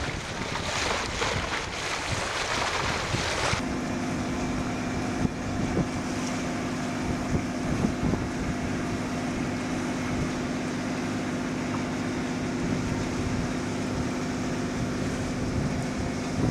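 Sailing boat underway: wind buffets the microphone over rushing water. About three and a half seconds in, the sound switches abruptly to a steady low hum under an even hiss.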